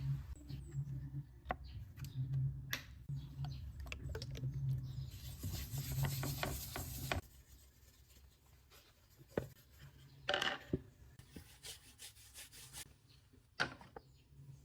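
Scrubbing and rubbing on a wooden cutting board for about seven seconds, then a few light taps and knocks.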